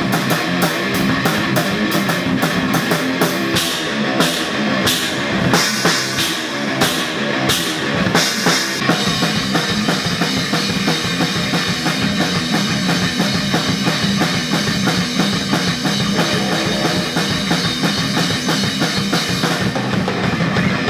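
A rock band playing at full volume, drum kit and electric guitar together. Fast, steady drum and cymbal hits drive the first part, then the band settles into ringing held chords that die away near the end.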